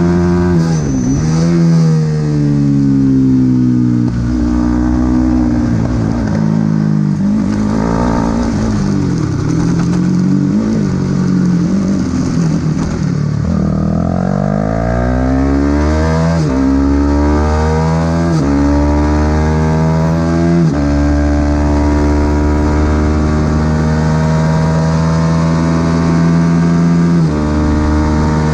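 Supersport 300 race motorcycle engine at racing speed. Through the first half the revs swing down and up as it brakes and takes corners. It then climbs through the gears in a run of quick upshifts, each one a sudden drop in pitch, and holds steady high revs for several seconds near the end.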